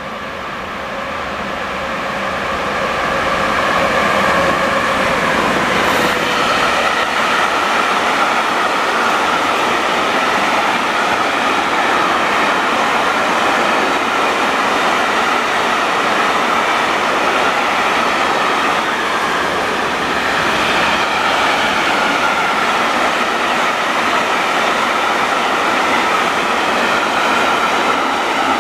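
A train passing close by on the tracks. It grows louder over the first few seconds, then holds a steady, loud rumble of wheels on rail with a high steady whine over it.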